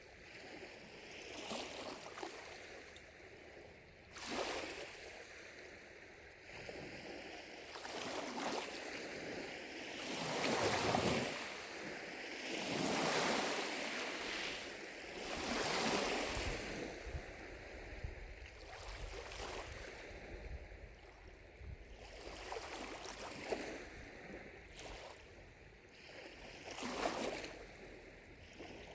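Small lake waves lapping on the shore, a swell of splashing every few seconds, with distant cicadas calling steadily underneath.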